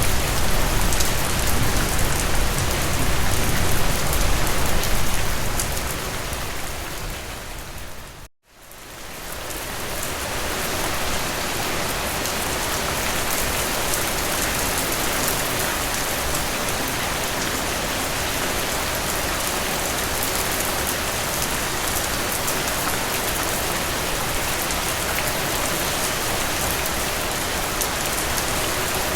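Heavy rain falling steadily. About eight seconds in, it fades out to a moment of silence and fades back in.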